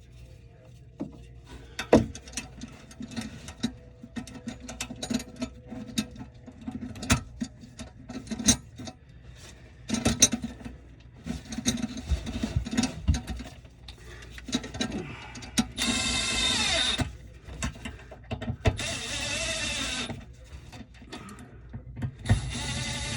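Tools and parts knocking and clattering, then three short runs of a power tool, each about a second long, with a pitch that shifts as it runs.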